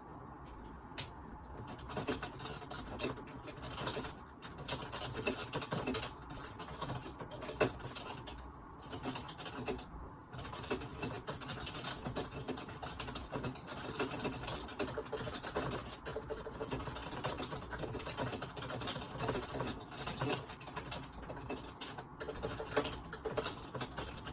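Computer keyboard typing, dense irregular key clicks with brief pauses, picked up by a phone microphone.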